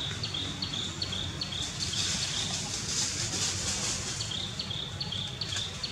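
A bird repeating short, high chirps, each dropping quickly in pitch, about two or three a second with a brief pause midway, over a high insect hiss that swells and fades in the middle.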